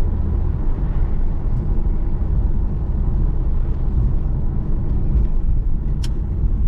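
Steady low rumble of a Pontiac Firebird's engine and road noise heard inside the cabin, with a single sharp click about six seconds in.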